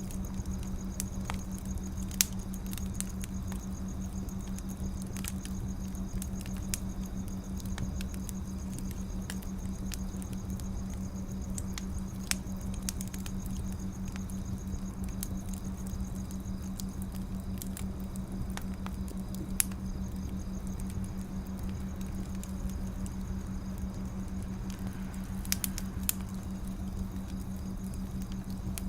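Wood fire burning with a steady low rumble and hiss, and scattered sharp crackles and pops from the burning logs.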